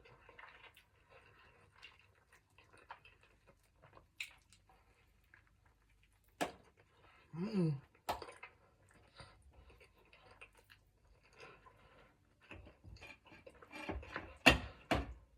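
Quiet chewing and eating sounds, with a few sharp clicks and knocks, a short falling hum about seven seconds in, and a cluster of louder knocks near the end.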